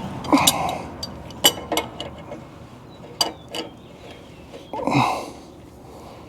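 Sharp metallic clicks and clinks of a hand wrench working on the steering hardware as it is tightened. Two louder rasping sounds that drop in pitch come near the start and about five seconds in.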